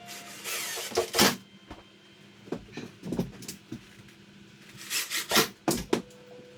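Wooden pieces knocked and scraped while being handled and fitted: a few separate knocks and rubbing scrapes, the loudest cluster about five to six seconds in.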